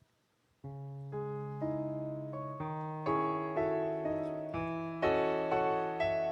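Piano playing a slow instrumental introduction. It begins about half a second in: a held bass with chord notes struck roughly twice a second, each fading away, and the playing grows louder partway through.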